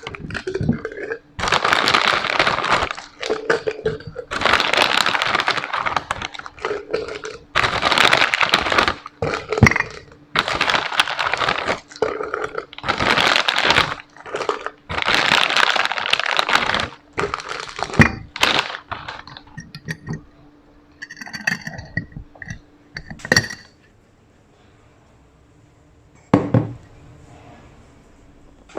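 A series of rough crushing or scraping strokes, about one every second and a half, followed by a few scattered clicks and knocks over a faint steady hum.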